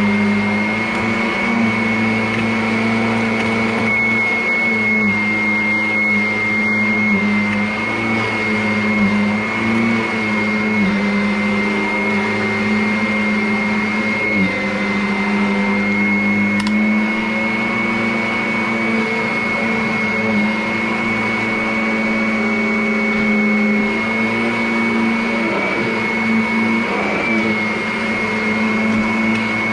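Vacuum cleaner running steadily, its motor giving a constant high whine over a low hum, with the pitch wavering slightly now and then.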